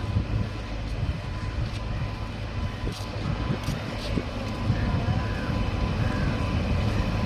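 Train running on the rails: a steady low rumble with scattered clicks.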